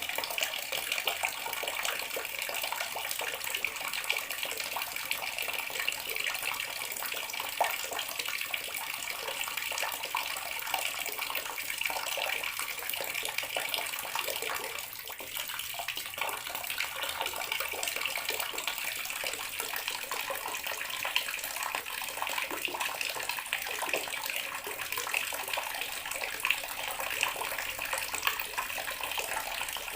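Bathroom water tap running steadily, water splashing and trickling into a basin, with a brief lull about halfway through.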